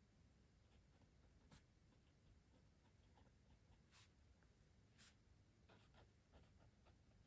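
Faint, scattered taps, clicks and soft rustles of stationery and its packaging being handled during unboxing, with a small cluster of clicks about six seconds in.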